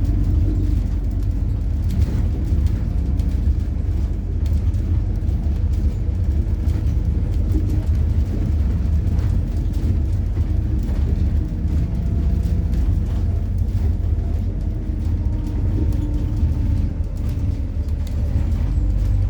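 MAZ-103 city bus running on compressed methane, heard from a ride aboard while it drives: a steady low engine and road rumble, with a fainter whine that shifts in pitch and small rattles and clicks.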